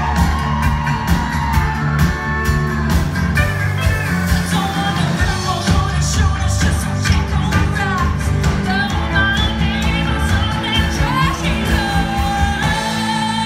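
Live rock band playing a country-rock song: a lead singer over a steady drum beat, bass and electric guitar.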